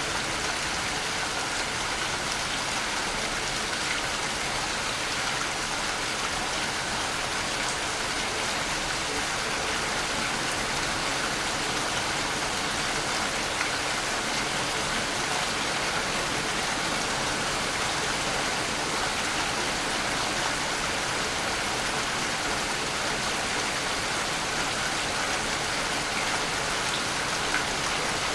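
Waterfall: a steady rush of falling water that holds at an even level, with no change.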